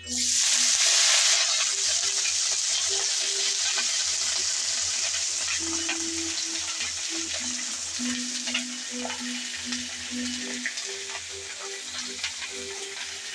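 Washed pumpkin leaves and flowers hitting hot oil in a kadai with fried garlic and dried chillies: a loud sizzle bursts out as the greens go in, then eases to a steady sizzle with scattered crackles as more handfuls are added.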